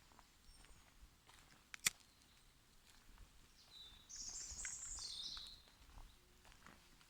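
A bird calls once in a high chattering phrase lasting about a second and a half midway through, dropping in pitch at its end, over quiet woodland air with faint scattered ticks. A single sharp click, the loudest sound, comes just under two seconds in.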